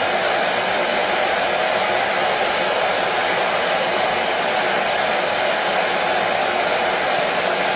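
Washing machine running with a steady, even noise that holds unchanged, strongest in the middle range.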